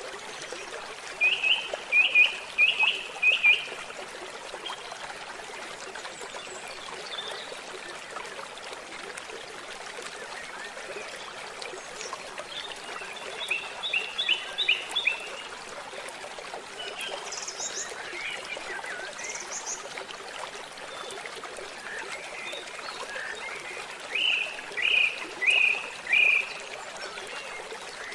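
A small stream trickling steadily, with a bird calling three times in quick runs of five or six short notes, and two brief higher calls in between.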